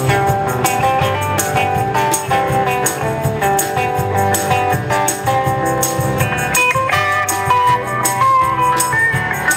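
Live band playing an instrumental break with guitar to the fore over drums, a steady beat running throughout.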